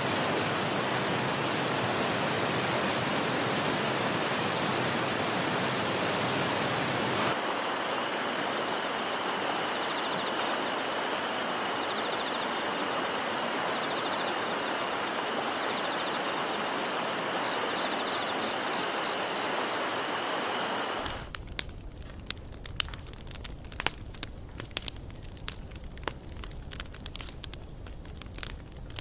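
Mountain stream water rushing steadily; a cut about seven seconds in brings a slightly softer rush with faint high chirping over it. About two-thirds of the way through it gives way to a wood campfire crackling, with many sharp pops.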